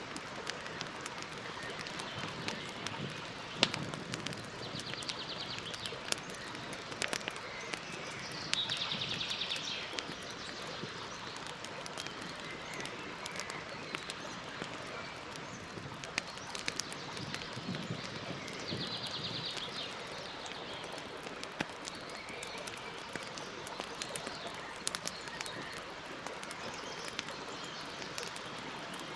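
Campfire burning with a steady hiss and scattered sharp crackles and pops of burning wood. A bird gives a short, rapid high trill three times in the background.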